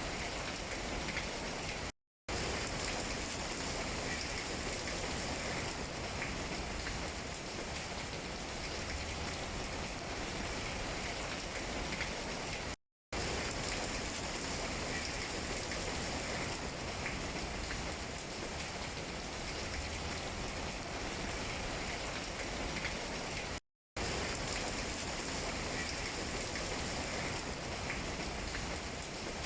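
Steady rain falling on tree leaves, with faint scattered drop taps. The sound cuts out to silence for a split second three times, about every eleven seconds.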